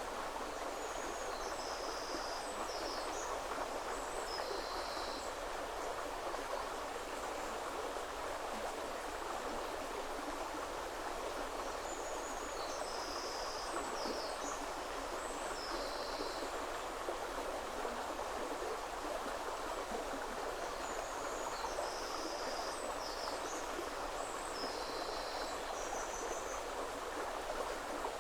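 A woodland river flowing with a steady rushing sound. A small bird sings the same short, high song three times, about ten seconds apart.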